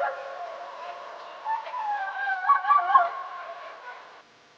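Dogs howling and yelping, the calls overlapping and rising and falling in pitch, loudest between about one and a half and three seconds in, then fading out near the end.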